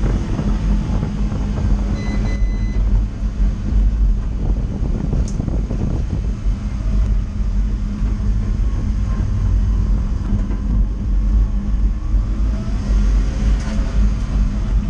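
Renault Twingo race car's engine running as it drives slowly, heard from inside its stripped-out cabin as a steady low drone. A short electronic beep sounds about two seconds in.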